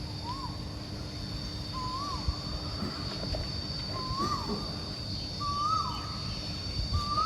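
A bird calling outdoors: a short whistled note, rising then dropping, repeated five times about every second and a half, each a little higher than the last, over a steady high whine.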